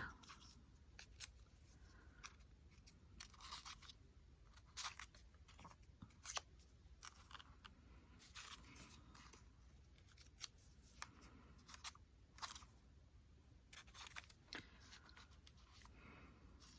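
Faint, irregular snips of scissors cutting paper into small pieces.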